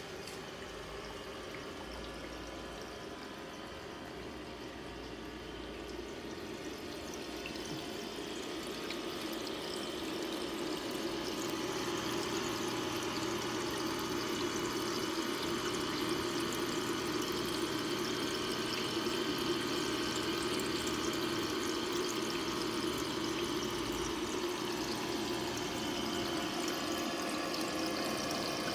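Small aquarium waterfall splashing steadily into the water. It grows louder partway through, and a low steady hum joins about a third of the way in.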